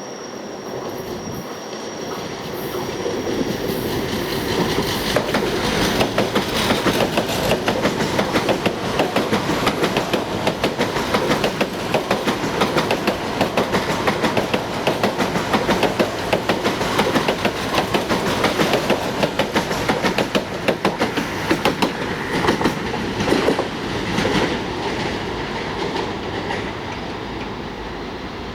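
EG2TV (Ivolga) electric multiple unit running past, its wheels clattering over the rail joints in a fast, steady clickety-clack. The clatter builds over the first few seconds and fades near the end.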